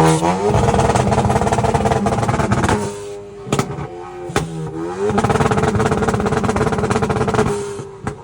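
Car engine revved hard and held at high revs with a rapid stuttering pulse, dropping off and being revved up again about four seconds in, with a couple of sharp cracks in between, and falling away near the end.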